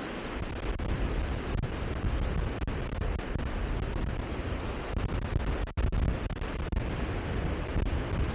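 Wind buffeting the microphone: a steady, uneven rumble heaviest in the low end, with two brief dropouts a little past the middle.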